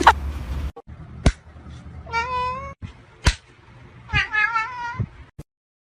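A cat meowing twice, two drawn-out calls about two seconds apart, with a few sharp clicks or knocks around them, the loudest between the two meows. The sound cuts off suddenly near the end.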